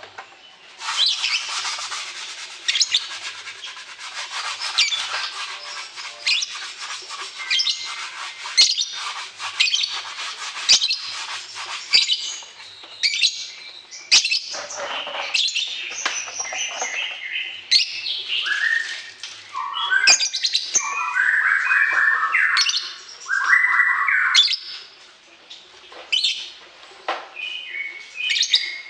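Songbirds chirping and singing in fast, dense trills, with a run of lower, chattering phrases about two-thirds of the way through.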